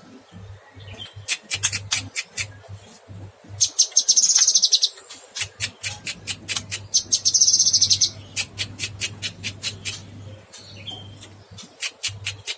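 A caged cucak kinoy singing vigorously: fast runs of short, sharp high notes, broken twice by a dense, buzzing trill about a second long. A steady low hum runs underneath.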